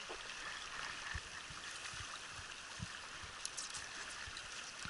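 Flowing water of a mountain trout stream, a steady even rush, with a few faint dull knocks.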